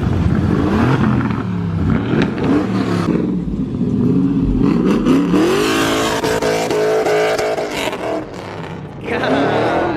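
Car engines revving and driving past, the pitch climbing hard about five seconds in and holding, easing off briefly, then rising again near the end.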